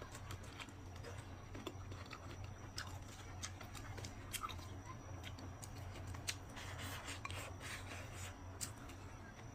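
Close-miked eating sounds: irregular sharp clicks and crackles of chewing and mouth noises, with a denser crackly stretch about seven seconds in.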